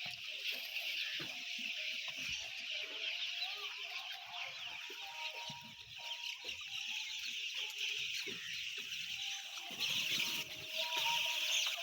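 A large flock of chicks peeping all at once, a dense chorus of high calls, with a few lower calls mixed in. A louder rustling noise comes about ten seconds in.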